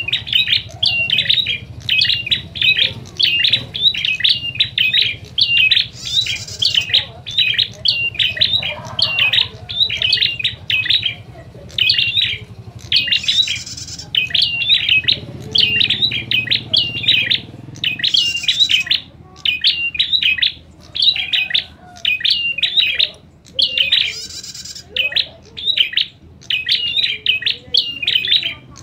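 Prinias calling in fast runs of sharp, repeated chirps, with barely a break, in the noisy 'fighting' chatter used to provoke other prinias. Every few seconds a short harsher, hissing note cuts in, over a faint steady low hum.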